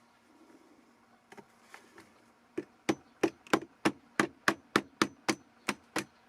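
Light hammer taps driving a 1/16 inch rod into a wooden whirligig figure's arm: a quick, even run of about a dozen, some four a second, starting about two and a half seconds in, after a few faint knocks.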